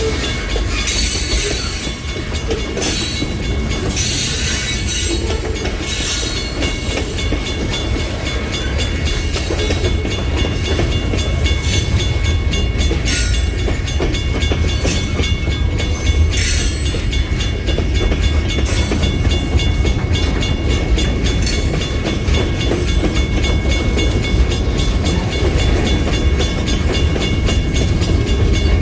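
Freight train rolling past, a steady low rumble with the wheels clacking along the rails and a thin high squeal from the wheels.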